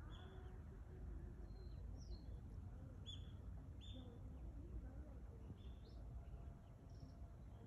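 A small bird gives short, high chirps, about seven of them spread through, over a steady low background rumble.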